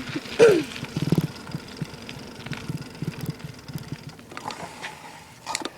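Bicycle rattling and thudding over bumpy ground, picked up through a camera taped to the frame, with a short falling squeal about half a second in.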